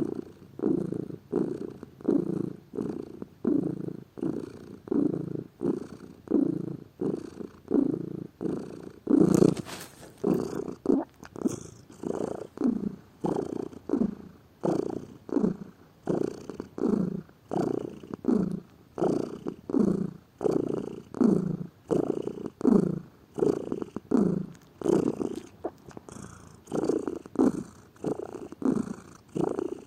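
Domestic cat purring close to the microphone: a steady rhythmic purr, about one and a half pulses a second as it breathes in and out. A brief louder noise comes about nine seconds in.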